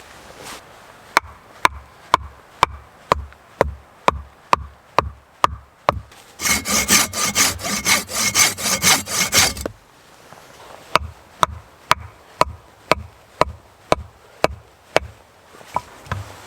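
Wood being cut with a hand saw: steady strokes about two a second, with a faster, harder run of strokes for a few seconds in the middle.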